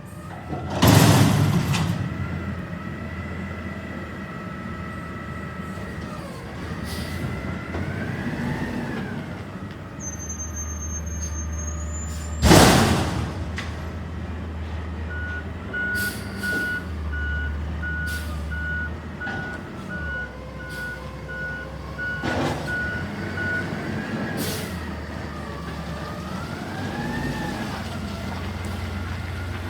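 CNG Peterbilt 320 garbage truck with a McNeilus Atlantic front-loader body working: its natural-gas engine runs steadily and revs up and down twice, with two loud bangs, one about a second in and one near the middle. Its reversing alarm beeps about once a second for roughly eight seconds in the second half.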